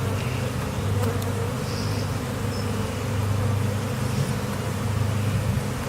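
Steady buzzing of many honey bees flying around an opened hive, disturbed by the inspection.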